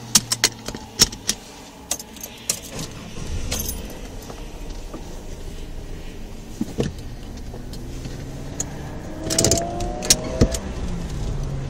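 VT Commodore's 3.8-litre Ecotec V6 idling steadily, heard from inside the cabin, with sharp clicks and rattles: a run of them in the first second or so and another cluster near the end, where a faint rising whine also comes in.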